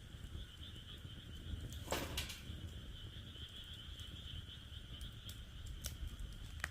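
Wood fire crackling in a fire pit, with scattered sharp pops, the loudest about two seconds in, over a steady chorus of frogs calling.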